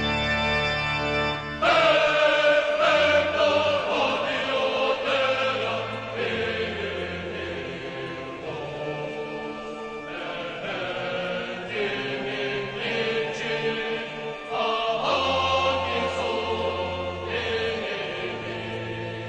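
Choir singing over sustained organ chords; a held organ chord opens, and the voices come in about two seconds in.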